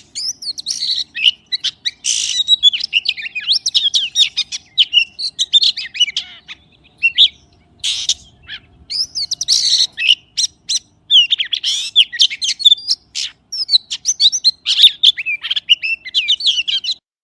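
Magpie singing a fast, varied run of bending whistles and chirps, broken by short pauses and a few harsh, scratchy notes. The song stops just before the end.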